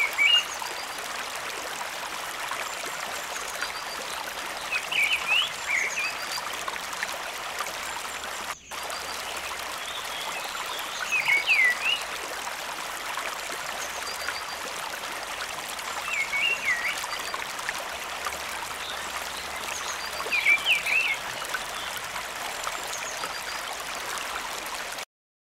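Steady rush of flowing water from a stream or waterfall, with a short chirping animal call repeated about every five seconds. The sound cuts off abruptly near the end.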